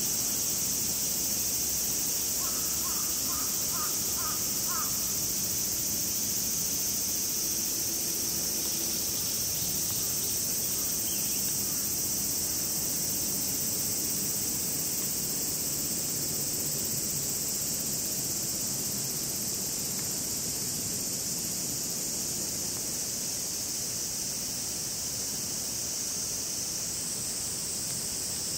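Cicadas calling in a steady, high, continuous chorus. A crow caws about five times in quick succession a few seconds in.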